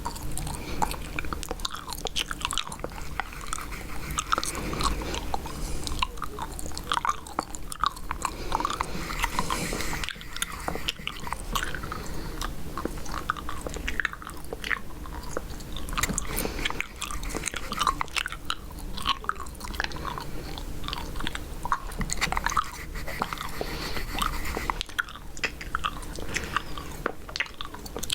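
Chewing gum being chewed close to the microphone, a continuous run of wet smacks and small clicks.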